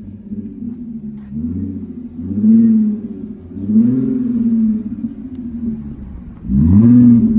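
2014 Audi A7 Quattro's V6 running through a muffler-delete exhaust: idling, blipped three times, each rev climbing and dropping back to idle. The last rev, near the end, is the quickest and loudest.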